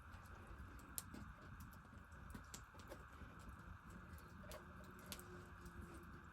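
Near silence with a faint steady hiss and a few faint, scattered clicks.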